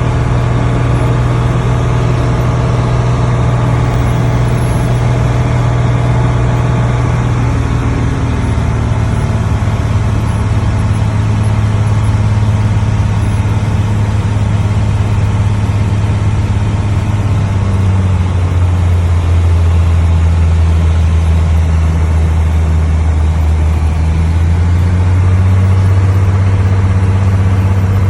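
Small propeller plane's piston engine running steadily with a loud, low drone; its pitch drops a little about a third of the way in and again past halfway, then rises slightly near the end.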